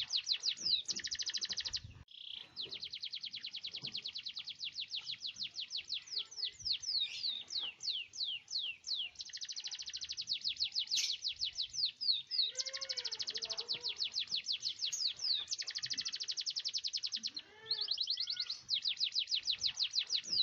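Domestic canary singing a long song of rapid rolling trills, with brief breaks and a stretch of slower, separate sweeping notes near the middle.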